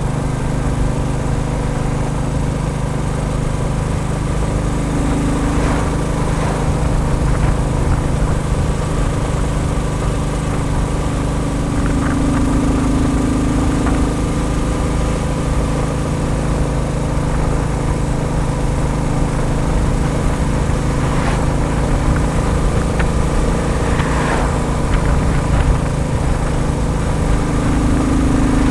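Royal Enfield Bullet 350's single-cylinder engine running steadily, with a higher-pitched tone that swells and fades several times.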